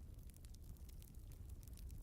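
Wood fire burning in a fireplace, crackling faintly: scattered small snaps and pops, several a second, over a low steady rumble.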